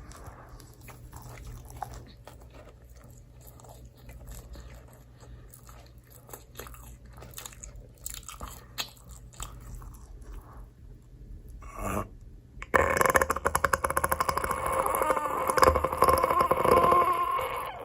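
Close-miked chewing and biting of pizza: soft, scattered mouth sounds for most of the time, then from about thirteen seconds in a loud, dense crunching that lasts several seconds.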